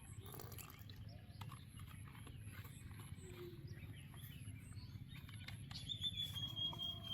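Faint outdoor ambience: a steady low rumble with scattered light ticks, and a thin, steady high note for about a second near the end.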